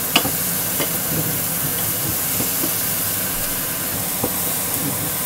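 Diced onion and garlic sizzling in hot oil in a stainless steel pot, with a steady hiss. A wooden spatula stirring them gives a few scraping clicks against the pot.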